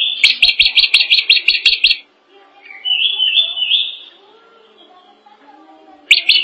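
Drongo singing: a rapid run of sharp notes, about seven a second, for two seconds, then a short phrase rising in steps, and the rapid run again near the end.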